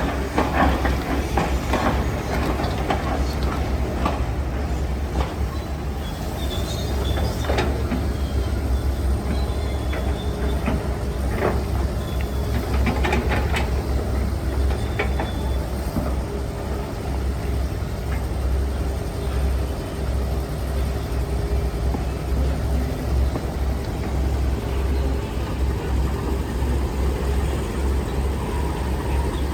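Heavy diesel construction machinery running steadily with a deep rumble, with scattered clanks and knocks through about the first half.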